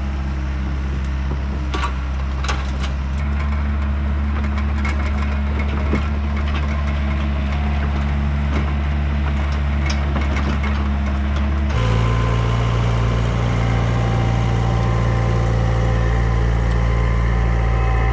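Diesel engine of compact Yanmar earthmoving machinery running steadily. Its engine note shifts about three seconds in and again about twelve seconds in, with scattered clanks and knocks along the way.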